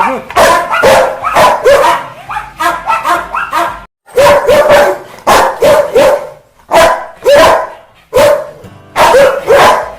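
Rottweiler barking aggressively in a rapid series of loud barks, with a brief break of silence about four seconds in.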